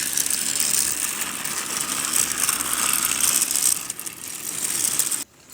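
A motorized toy train running along its track: a steady rattling whir of its small motor and gears that cuts off suddenly near the end.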